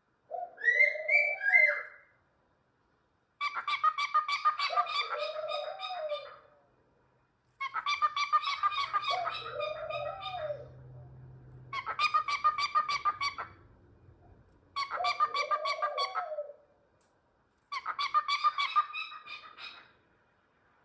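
A cockatiel calling in a repeated phrase, six times over: each a rapid stuttering run of pulses with a short up-and-down warble, lasting two to three seconds, with short pauses between.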